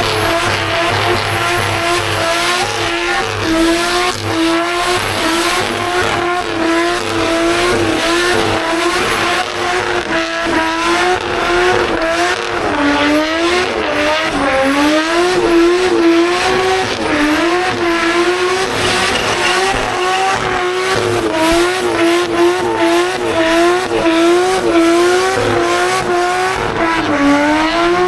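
Car engine held at high revs during a burnout, the note wavering and dipping briefly every second or two as the throttle is worked, over the noise of spinning tyres.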